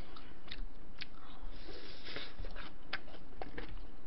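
Someone biting and chewing crispy deep-fried pork cutlet (tonkatsu) close to the microphone: scattered crunches and sharp clicks, with a longer crackly stretch near the middle.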